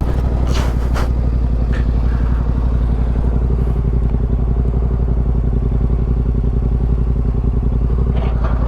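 Motorcycle engine running loud and steady at an even pitch, with a couple of sharp knocks about half a second and a second in.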